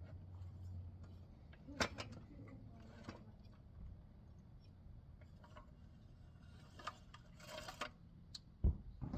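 Scattered light clicks and knocks of tools and parts being handled at a workbench, with a short rustle late on and a heavy low thump near the end. A low hum fades out about a second in.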